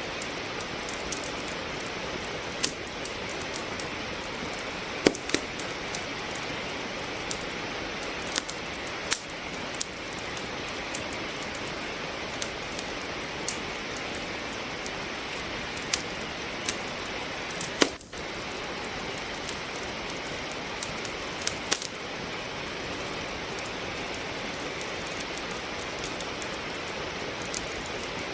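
Steady rain falling, with a wood fire crackling over it in sharp, irregular pops. The sound dips for an instant about two thirds of the way through.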